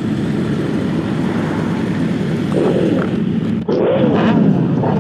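Harley-Davidson Low Rider S's Milwaukee-Eight V-twin engine running steadily, heard close through the rider's mic.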